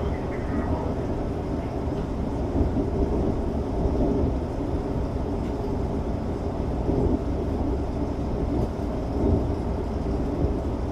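Steady low rumble of a Tokyo Metro 05 series commuter train, heard from the front of the train, with no clear tones or separate knocks.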